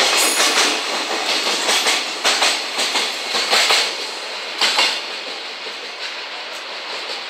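Container wagons of a freight train rolling past, wheels clacking over rail joints. The last wagon passes about four seconds in, the clacks stop shortly after, and the sound fades as the train moves away.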